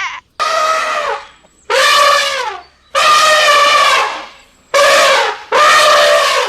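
An animal calling five times in a row, each a loud, pitched call of about a second that drops in pitch at its end, with short gaps between.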